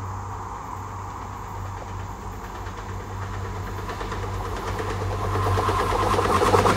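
MBTA commuter train hauled by an EMD F40PH-3C diesel locomotive approaching, its low steady engine hum growing louder over the last few seconds. Wheel-and-rail noise builds in near the end as the train closes in.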